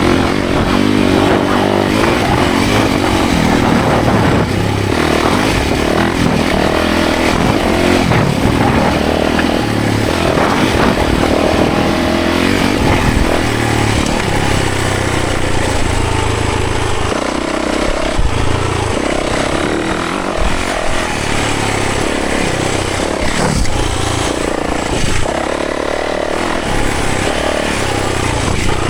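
Yamaha 450 four-stroke single-cylinder dirt bike engine under way, its pitch repeatedly rising and dropping as the throttle opens and closes through the gears.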